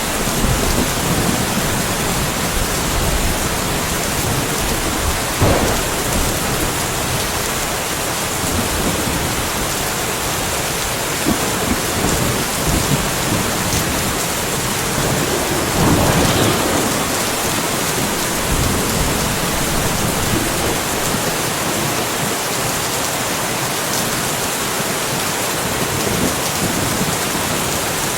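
Steady heavy rainfall on surfaces, a dense even hiss. Thunder rumbles faintly now and then, with swells about five seconds in and about sixteen seconds in.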